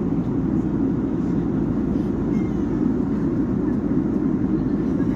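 Steady low rushing noise of a jet airliner cabin in flight, engine and airflow noise at an even level.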